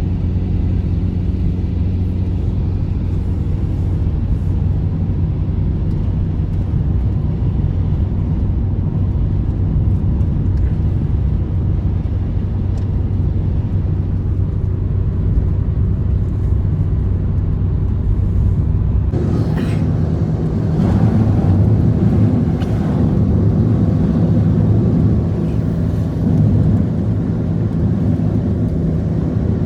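An engine running steadily with a low hum; about nineteen seconds in it gets louder and rougher.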